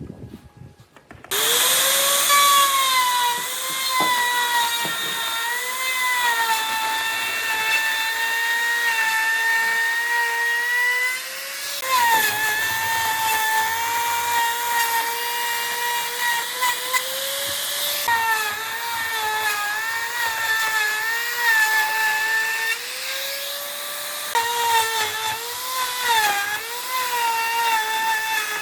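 An electric power tool running on wood: a high motor whine that starts suddenly about a second in, its pitch dipping and recovering again and again as the tool is loaded by the cut.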